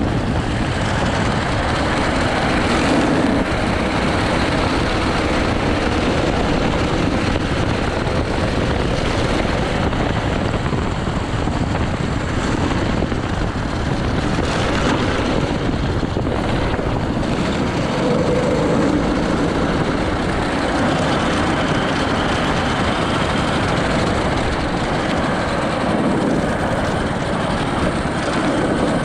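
80cc go-kart engine running at speed on track, a dense steady drone whose pitch drifts up and down with the throttle.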